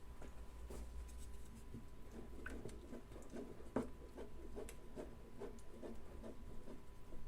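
Light, irregular scraping and tapping of a kitchen utensil, two or three strokes a second, with one sharper tap about midway.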